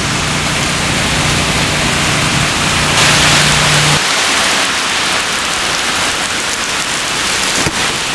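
Heavy downpour of rain, a steady hiss that swells briefly about three seconds in. A low steady hum runs underneath and stops about halfway through.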